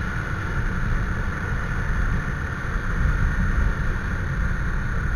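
Motorcycle running: a steady low rumble with a steady higher tone over it.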